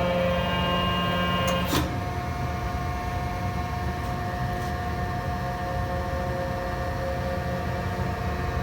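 1967 Rockford open side planer running under hydraulic drive, a steady hum and whine of several tones over a low rumble, with a single sharp knock just under two seconds in.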